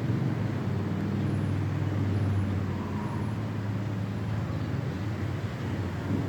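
A steady low hum under an even hiss, with four faint, short, high peeps about a second apart.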